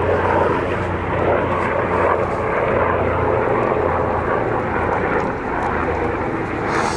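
A low-flying helicopter's rotor and engine noise, loud and steady.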